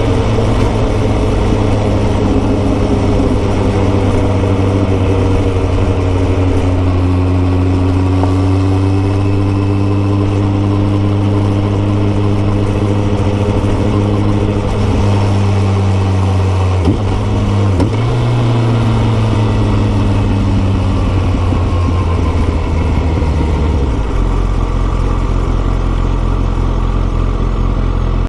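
Kawasaki ZX14R's inline-four engine through a Yoshimura exhaust, running steadily at moderate revs on the move, its note slowly drifting in pitch. The note briefly breaks and shifts a little past the middle, and settles lower near the end.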